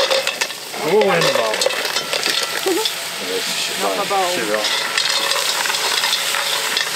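Mussels sizzling in a hot cast-iron camp oven of cooked-down sofrito, stirred with clicks and scrapes of shells against the pot. A voice or two is heard briefly in the background.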